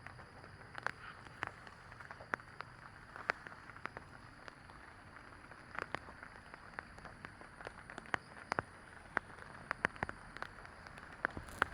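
Rainforest ambience: irregular drops of water tapping on leaves, one or two a second, over a steady soft hiss and a faint steady high tone.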